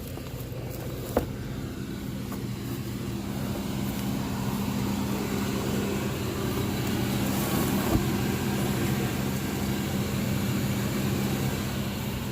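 2000 Chevrolet Cavalier's 2.2-litre four-cylinder engine idling steadily, with a sharp knock about a second in and another about eight seconds in.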